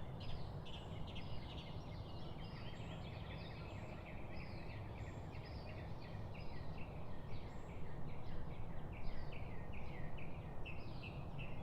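Many birds chirping and chattering at once, short calls overlapping without pause, over a steady low background rumble.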